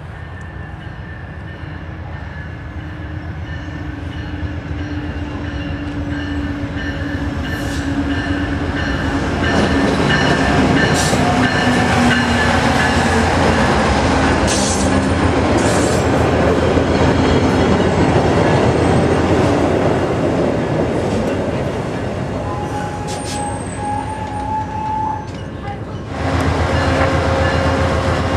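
VIA Rail passenger train approaching and passing close by. The diesel locomotive's engine and the rumble grow steadily louder over the first ten seconds, then come the dense rumble and scattered clicks of the cars' wheels on the rails. Near the end the sound cuts abruptly to the steady hum of the train standing at the platform.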